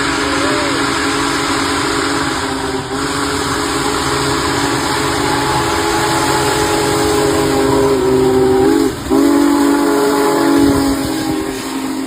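Big Boy 4014's steam whistle blowing a long chord of several steady tones. It breaks briefly about nine seconds in, then sounds again and begins to fade near the end, with the passing train's running noise underneath.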